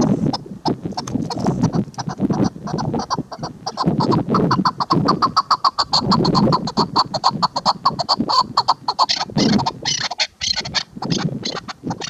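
Chukar partridge calling: a loud, rapid series of short, repeated clucking notes.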